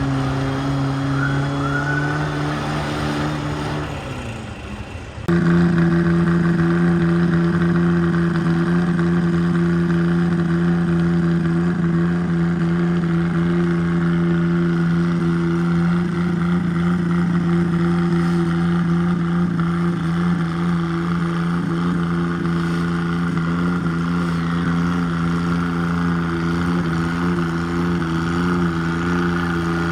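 Garden pulling tractor engine running hard at a steady high speed. About four seconds in it drops and quietens, then it cuts abruptly to a louder, higher-pitched steady run that holds to the end.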